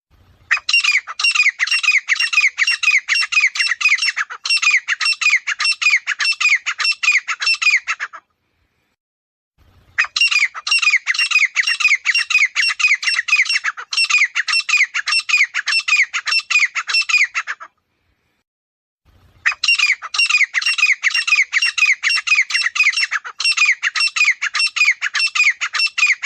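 Grey francolin calling: three bouts of rapidly repeated harsh, loud notes, each lasting several seconds, with short silent pauses between them.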